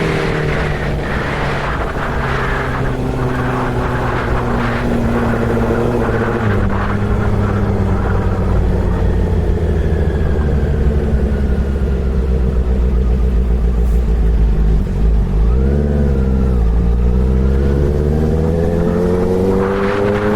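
Honda CB650R's inline-four engine running at road speed. Its pitch drops about six seconds in, dips and climbs again a little past the middle, and rises steadily near the end as the bike accelerates.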